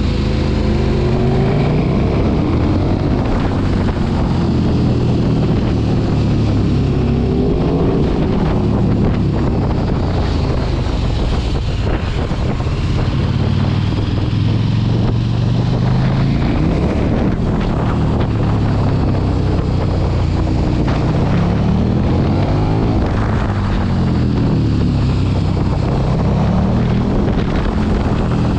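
Sport motorcycle engine heard on board while riding, its revs repeatedly rising and falling with gear changes and throttle through the bends, with wind noise on the microphone.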